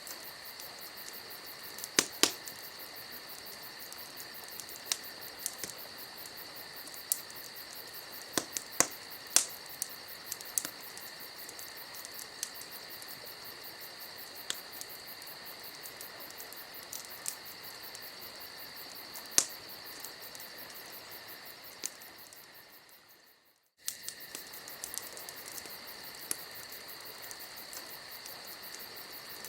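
Campfire crackling, with scattered sharp pops, over crickets chirping steadily. The whole sound fades out about 22 seconds in and cuts straight back in a moment later.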